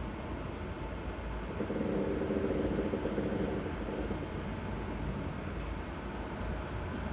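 Seibu 6000 series electric train running, its steady rolling rumble heard from inside the car. A louder hum rises over it about two seconds in and fades after four, and a faint high whine climbs in pitch near the end.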